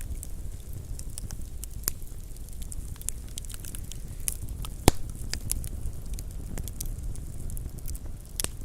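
Wood fire crackling: burning logs give off irregular sharp snaps and pops, with one loud pop about five seconds in, over a steady low rumble.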